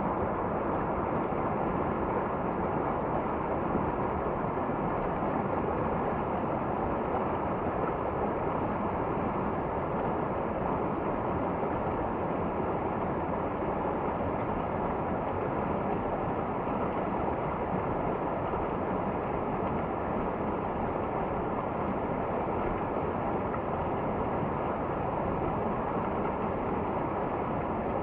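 Steady rushing of a river or waterfall, an even noise that doesn't change.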